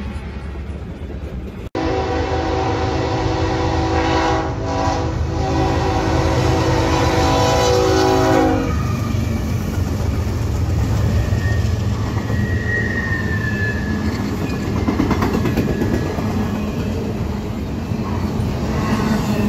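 A passing freight train, cut off abruptly about two seconds in. Then a Norfolk Southern diesel locomotive's horn sounds one long chord of several notes for about seven seconds, and a double-stack intermodal freight train rolls past, its locomotives followed by container well cars rumbling by on the rails.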